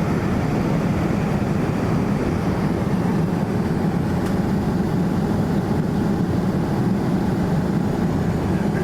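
Steady cabin noise of a Boeing 787-9 Dreamliner in flight: engine and airflow rumble, strongest in the low range and with no changes.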